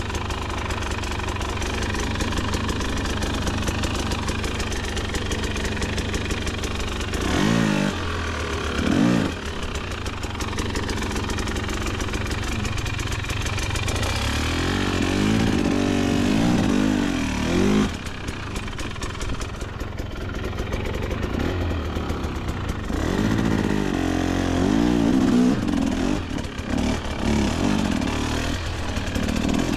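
KTM 250XC-W two-stroke dirt bike engine running at low revs, with the throttle worked in uneven revs that rise and fall about seven seconds in, again around fifteen seconds, and near twenty-five seconds.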